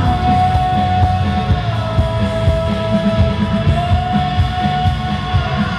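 Live pop-rock band playing, with a singer holding long sustained notes over drums and bass.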